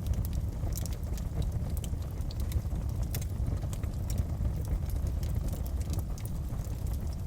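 Wood fire crackling in a fireplace: frequent small sharp pops and snaps over a steady low rumble of the flames.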